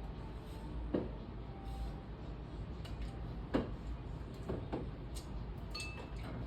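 A few light knocks and clinks, about four in all, over a steady low hum.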